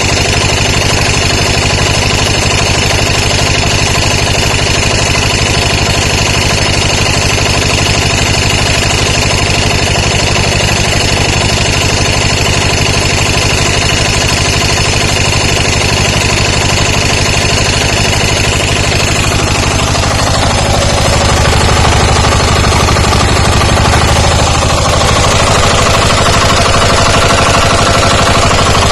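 12 hp diesel engine running steadily on a test run after its overhaul. About twenty seconds in its note changes and it gets a little louder.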